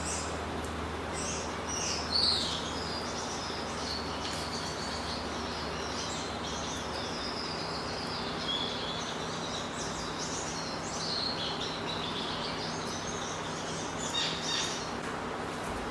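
Many small cage birds chirping and twittering over a steady background hiss, with louder bursts of calls about two seconds in and near the end. A low hum underneath stops about halfway through.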